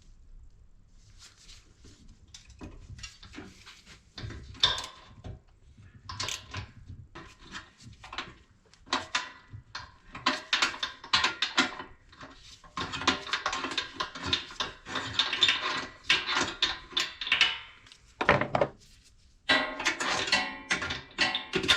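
Hand tools and metal parts clinking and knocking, a run of sharp clicks and taps, as the fixings holding a petrol pressure washer's fuel tank are worked loose.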